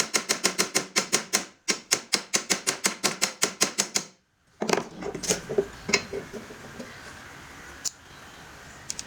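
Rapid, even series of sharp taps, about six or seven a second, broken by a short gap partway through, then a few scattered knocks.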